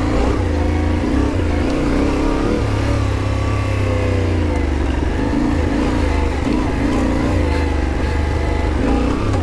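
Yamaha Ténéré 700's parallel-twin engine running under way on a dirt trail, its pitch rising and falling as the rider opens and closes the throttle.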